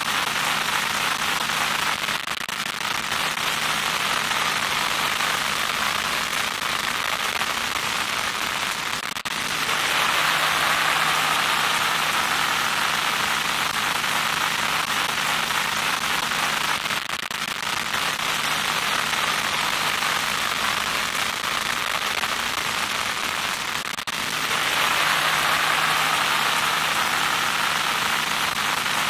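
Loud electronic static: a continuous crackling hiss over a steady low hum. Its texture changes every seven seconds or so, turning brighter and hissier at about nine seconds and again at about twenty-four seconds.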